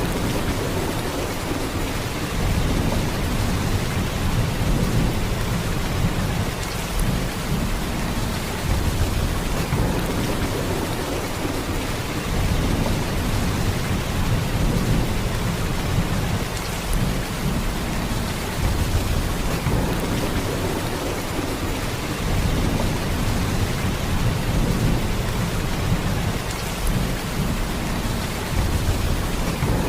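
Heavy rain pouring steadily, a dense even hiss of drops with a deep low rumble underneath that swells and eases every few seconds.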